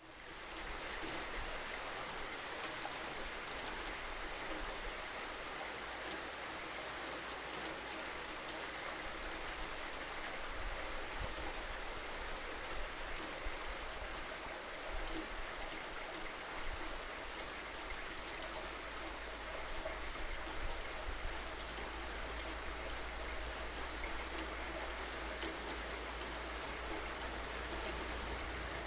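Steady rain falling, an even hiss with scattered louder drops, fading in right at the start after a brief silence.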